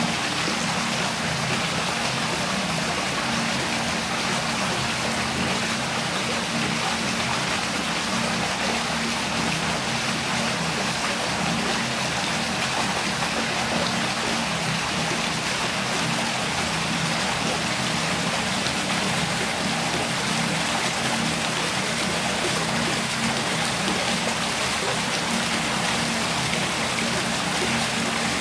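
Steady rush of running water with a constant low hum beneath it.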